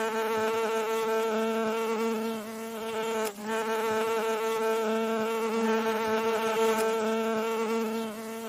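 Bee buzzing: a steady, pitched buzz, with a brief break about three seconds in.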